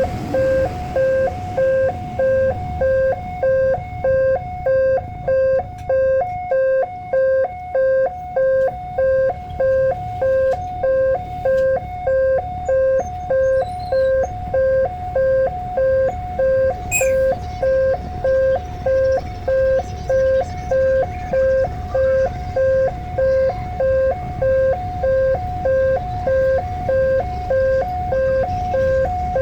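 Railway level-crossing warning alarm sounding: a two-tone electronic chime repeating steadily about one and a half times a second, over a low rumble. A single sharp click comes about 17 seconds in.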